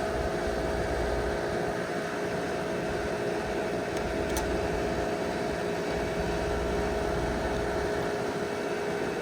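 Outdoor air-conditioning condensing unit running: a steady hum from its fan and compressor with a couple of steady tones.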